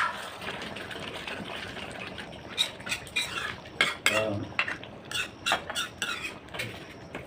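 Spoons and dishes clinking in irregular short clicks and scrapes, as people eat from plates, with one sharper knock right at the start.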